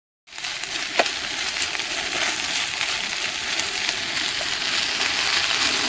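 Chopped onion, potato and pepper sizzling steadily as they fry in oil in a steel pot, starting just after a brief gap. A metal spoon clicks once against the pot about a second in.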